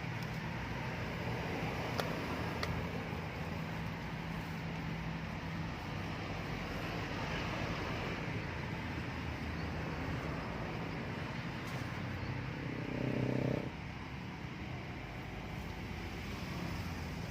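Steady outdoor traffic noise from passing vehicles. It has a low engine hum, and a louder engine tone comes up near the end and cuts off suddenly.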